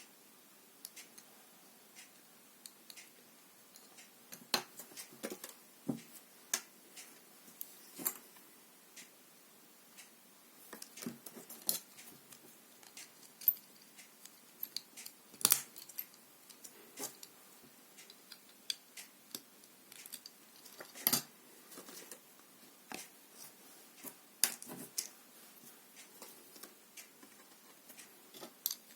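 Plastic LEGO bricks clicking and tapping as they are handled and pressed together, in irregular short clicks, with a few louder snaps around the middle and about two-thirds in.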